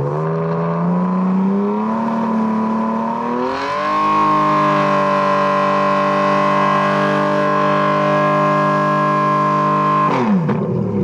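Ferrari Enzo's V12 engine revving: the pitch climbs over the first few seconds, holds at steady high revs for about six seconds, then drops away near the end.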